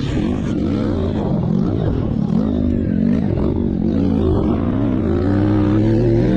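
Motocross bike engines revving, their pitch rising and falling again and again as the riders work the throttle.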